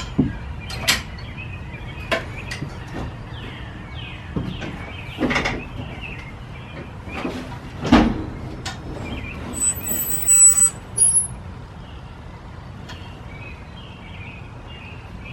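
Scattered knocks and clanks of tools and equipment being handled, the loudest about eight seconds in, with a bright metallic jingle around ten seconds, over a steady low hum.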